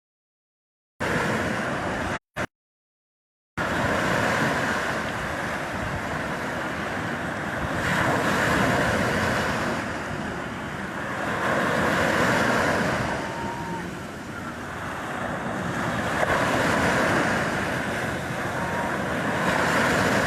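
Sea waves breaking and washing in, swelling and fading about every four seconds. The audio cuts out completely for a moment twice in the first few seconds.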